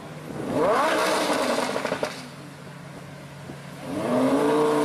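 A car engine revving twice. About half a second in, the pitch climbs and holds high for over a second, then falls back to a low idle. About four seconds in it climbs again.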